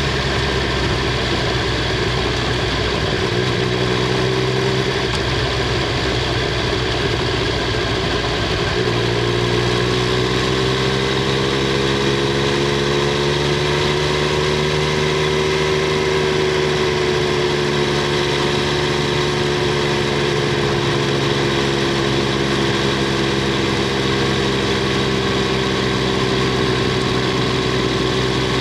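Triumph Street Triple 765 R's inline three-cylinder engine and exhaust running at fairly steady revs, picked up from under the seat. The note changes about a third of the way in, then its pitch eases up a little and back down.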